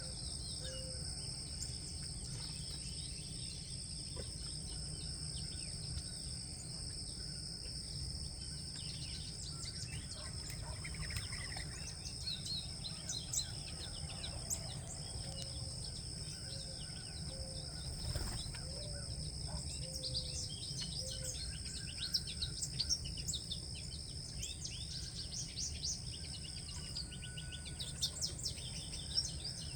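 Small birds chirping in short, quick notes, more often in the second half, over a steady high-pitched insect drone and a low outdoor rumble.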